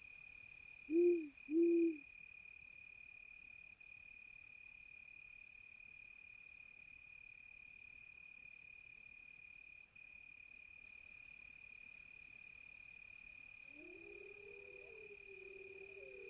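Crickets chirping steadily, with two short owl hoots about a second in, the loudest sounds. Near the end a wolf howl rises in and holds.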